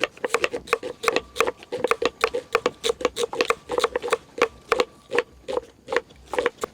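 Knife chopping food on a wooden cutting board: rapid, slightly irregular strikes about four or five a second, each with a short hollow knock from the board.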